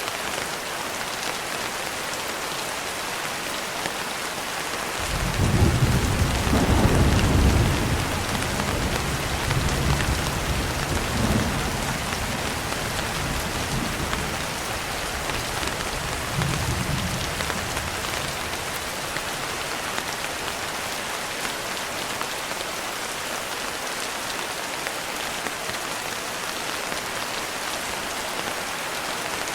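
Steady rain falling, with a roll of thunder starting about five seconds in. The thunder is loudest for the next couple of seconds, then rumbles on more faintly in a few swells before dying away around the middle.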